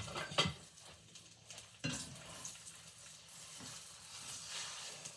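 Egg-dipped waffles frying in butter in a nonstick skillet: a steady sizzle that grows suddenly louder about two seconds in. A few light clicks come near the start.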